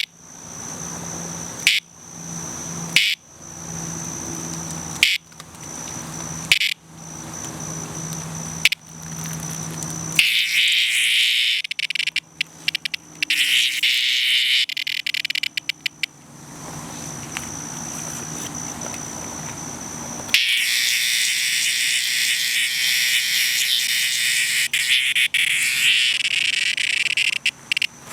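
Cicada distress call. It starts as short pulses repeating about every second and a half. Then comes a loud rasping buzz that stutters and breaks off, and a second long buzz that breaks into rapid stutters near the end.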